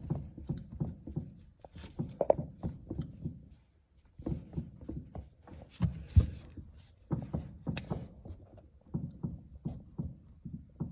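Front suspension control arm being rocked back and forth by hand, knocking about three to four times a second with a short pause partway through. The knocks come from roughly a millimetre of fore-and-aft play of the arm on its bolt, the cause of the suspension's clunk at low speed.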